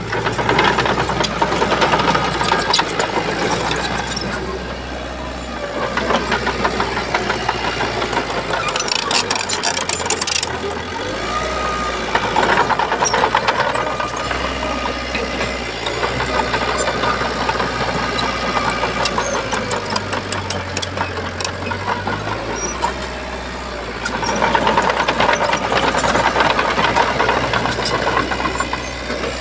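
Shantui bulldozer's diesel engine working under load, its note rising and falling as the load changes, with bursts of rattling clicks at times.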